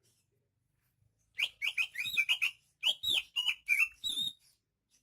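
Cucak ijo (green leafbird) singing a fast run of quick chirping, sweeping notes, starting about a second and a half in, with a brief break in the middle, and stopping shortly before the end.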